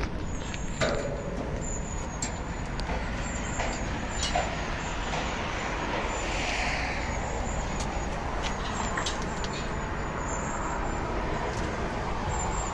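Truck running steadily, with scattered clicks and a brief hiss about six seconds in.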